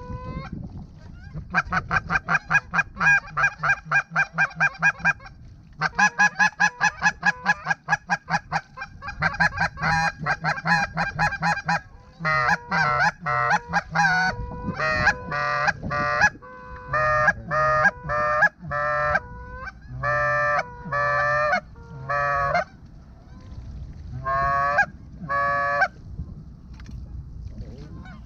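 Goose honking: quick runs of short clucking honks through the first half, then slower, longer honks that break upward in pitch, over a steady low wind rumble.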